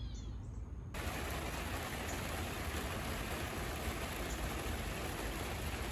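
Steady rain falling, an even hiss that starts abruptly about a second in.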